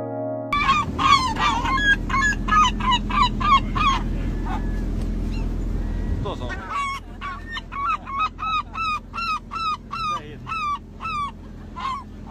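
A large bird calling in two long runs of quick, repeated yelping notes, about three or four a second, with a pause between the runs. A steady low rumble runs underneath.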